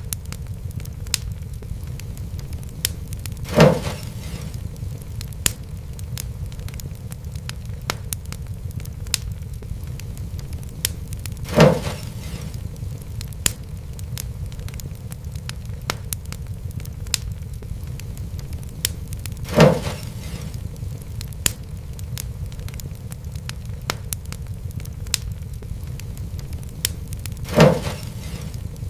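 Fireplace fire crackling: a steady low rumble with many small snaps, and a louder pop four times, evenly about every eight seconds.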